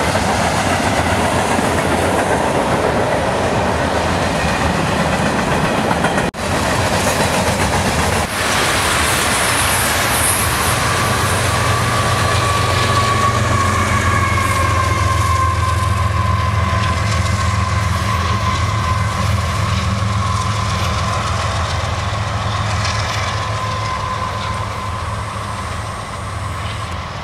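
Freight train of covered hoppers and tank cars rolling past at speed: a steady rumble and clatter of wheels on rail. Through the second half a thin wheel squeal rings out, and the sound eases a little near the end as the last cars pass.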